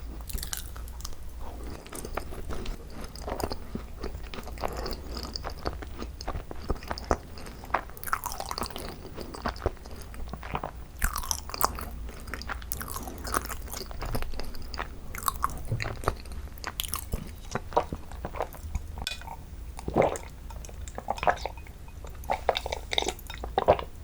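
Close-miked chewing of thick-filled macarons: irregular soft crunches and wet mouth clicks as the crisp shells and dense cream are bitten and chewed.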